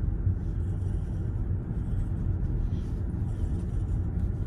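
Steady low road and tyre rumble inside the cabin of a moving Tesla, an electric car with no engine note.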